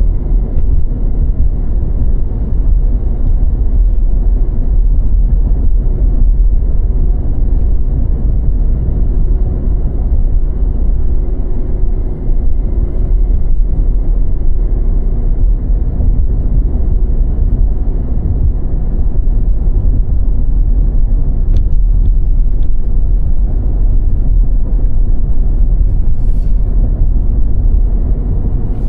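Steady low rumble of a car driving on snow-covered roads: engine and tyre noise with no breaks.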